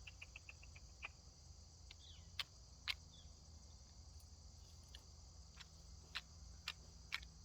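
Faint, steady chirring of crickets or other insects, with a few scattered sharp clicks and a short run of quick ticks near the start.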